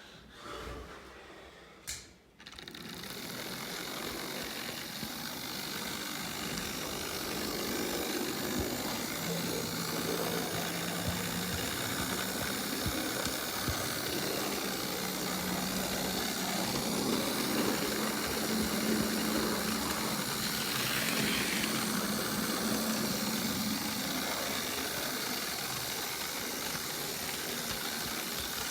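Model railway locomotive running along the track, a steady running noise with a low hum from its motor and wheels, picked up close by a phone riding on a flatbed wagon in the train. It starts about two seconds in, after a few clicks of handling.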